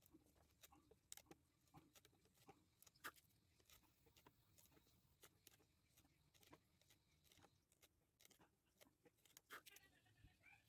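Near silence with faint, irregular small clicks and taps scattered throughout.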